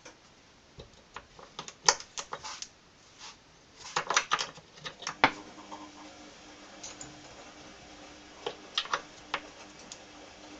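Small metal parts and hand tools clicking and clinking in short irregular clusters, as when a minibike clutch is taken apart or put back together.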